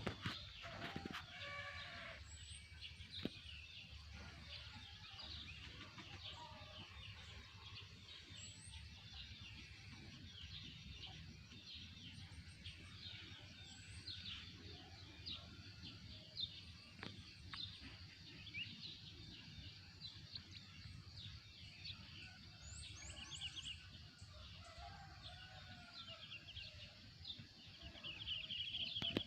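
Many small birds chirping and twittering throughout, quick high calls overlapping, with a few lower calls now and then over a faint background hum.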